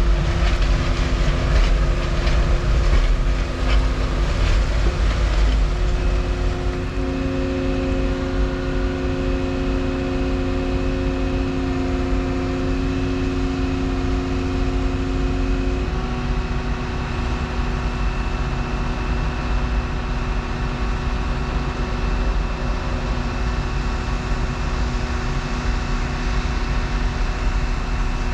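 Volvo 235EL excavator's diesel engine and hydraulics running steadily under work, with a burst of metallic clanking over the first few seconds. The engine note shifts twice, about a quarter and about halfway through.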